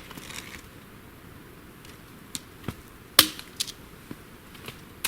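Dead twigs snapping as they are broken off a tree by hand: a run of sharp single cracks, the loudest about three seconds in, with a quick cluster of snaps at the end.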